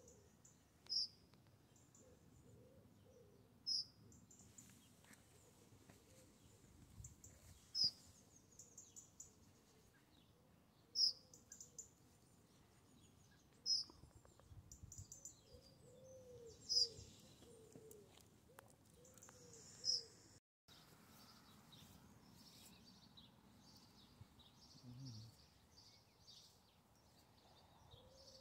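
A bird calling: a short, high chirp repeated seven times, about every three seconds, then after a brief gap softer twittering of other birds.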